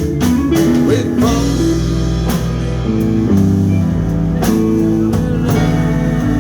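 Live band playing a passage between sung lines: guitar, keyboard and bass guitar holding and changing notes, with a drum kit keeping time.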